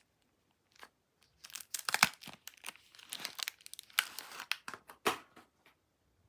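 Soap wrapper being crinkled and torn open by hand: a few seconds of rustling and tearing with sharp crackles, loudest about two seconds in and again near the five-second mark.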